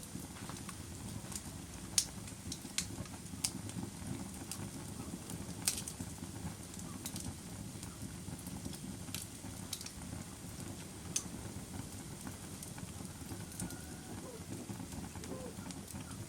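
Wood fire burning with a steady low rumble and scattered sharp crackling pops.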